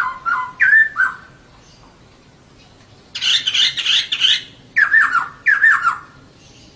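Female poksay (laughingthrush) calling. A few short notes come at the start, then a harsh chattering burst about three seconds in, then two quick falling calls.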